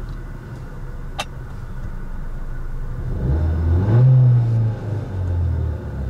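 Skoda Octavia 1.4 TSI turbocharged four-cylinder petrol engine idling, then revved twice: a longer rev a little past the middle that drops back to idle, and a shorter one near the end. A single click about a second in.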